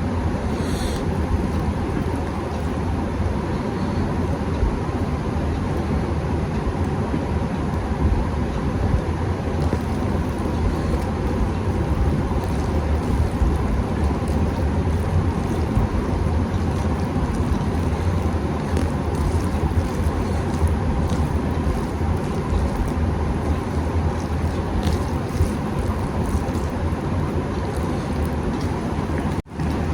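Steady low rumbling noise, with faint scattered clicks and smacks of eating over it; it drops out briefly near the end.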